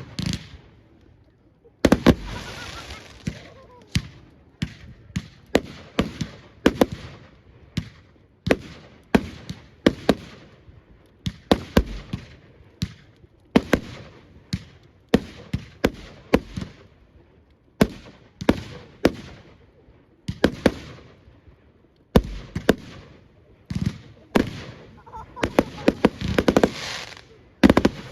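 Fireworks display: sharp bangs of bursting shells going off one after another, each fading away over a moment, about one or two a second and coming thicker near the end.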